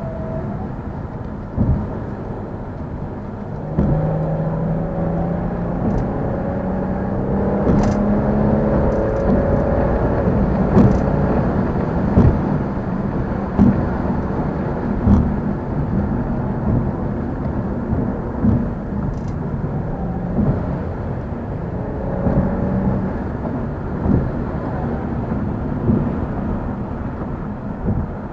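Car engine accelerating hard, its pitch rising in long pulls, over steady road noise with occasional short thumps.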